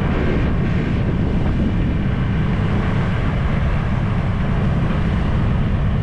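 Wind buffeting the microphone of a GoPro on a moving scooter, over the scooter's engine and road noise, steady throughout.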